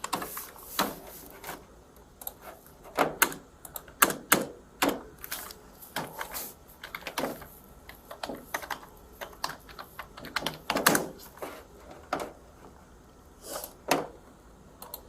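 Typing on a computer keyboard: irregular clacking keystrokes in uneven runs, a few per second, with a few heavier knocks mixed in.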